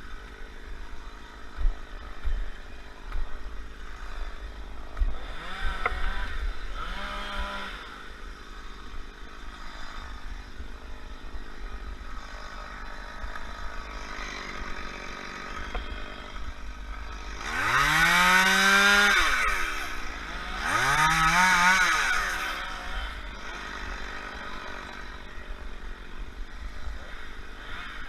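Chainsaw revved up to full speed four times: two short revs about six and seven seconds in, then two louder revs of about two seconds each, each rising quickly in pitch and then holding. A low steady rumble runs underneath.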